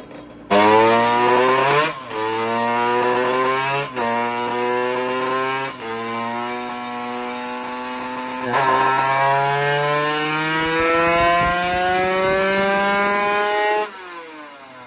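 Two-stroke drag-race motorcycle engine making a full-throttle pull on a chassis dyno. It opens up sharply about half a second in, and its revs climb in each gear with a drop at each of four upshifts. Near the end the throttle is shut and the engine falls back to a quiet idle.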